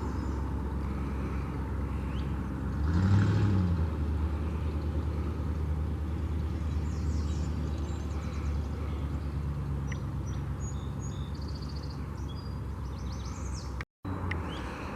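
A steady low motor hum that swells briefly about three seconds in, its pitch rising and then falling. Small birds chirp over it in the second half.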